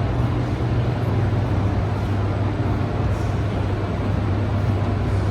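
Steady low hum and even machinery rush of a hydroelectric power plant's generator hall, with the big generating units running.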